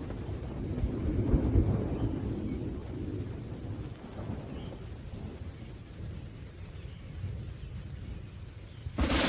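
Thunder rolling and rumbling low, swelling about a second in and slowly dying away, with rain falling throughout. Near the end a sudden sharp crack of thunder breaks in.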